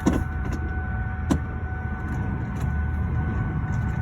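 Tow truck engine idling with a steady low rumble, with a faint steady high-pitched tone over it. Two sharp knocks come, one right at the start and one about a second and a half in.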